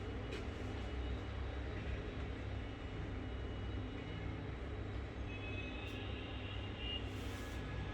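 Steady low rumble with an even hiss of background noise, and a few faint high steady tones about five to seven seconds in.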